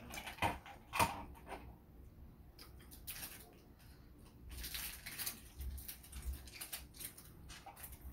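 Close-up chewing and eating sounds: mouth noises as pork barbecue is eaten, with scattered short clicks and two sharper clicks about half a second and a second in.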